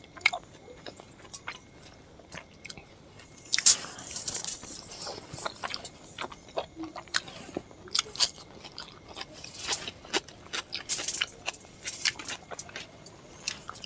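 Close-miked chewing and wet mouth sounds of someone eating luchi and chicken curry by hand, with many short sharp smacks and clicks; the loudest comes about four seconds in.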